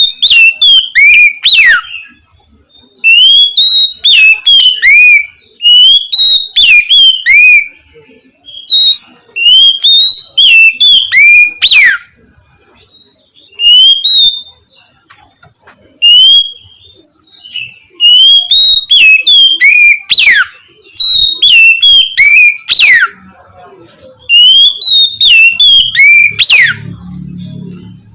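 Oriental magpie-robin singing loud, clear whistled phrases. Each phrase is a quick run of rising and falling notes ending in a long downward slide, repeated every two to three seconds with short pauses.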